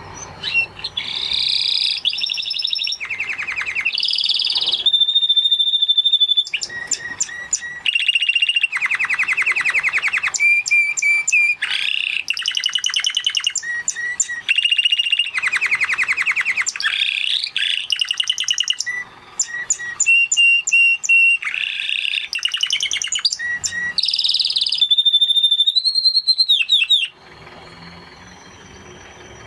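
Spanish Timbrado canary singing a long continuous song of rapid trills alternating with held whistled notes. The song stops abruptly near the end, leaving a faint low background noise.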